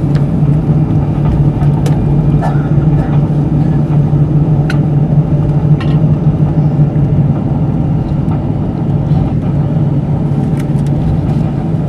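Steady cabin noise inside an Airbus A320 taxiing after landing, with a strong low hum from the idling engines and air conditioning and a few faint clicks.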